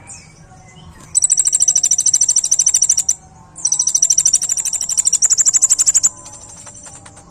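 Kolibri ninja sunbird singing two long, fast, high-pitched trills of rapidly repeated notes. The trills are separated by a half-second break, with softer chirps before and after.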